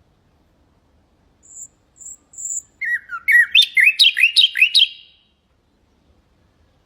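Common nightingale singing one phrase: three thin, high notes, then a fast, loud run of slurred notes lasting about two seconds.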